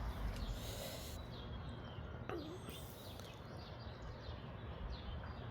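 Birds chirping: many short, high chirps, faint over a steady outdoor hiss.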